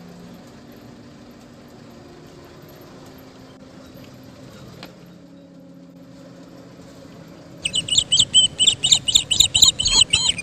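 A vehicle engine running with a low, steady hum. About two-thirds of the way in, a bird breaks in with a rapid series of loud, high, sharp chirps, about five a second, which cut off abruptly.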